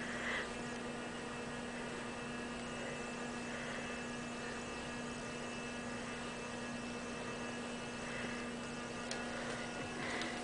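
Steady electrical mains hum, one constant low tone with fainter higher tones above it.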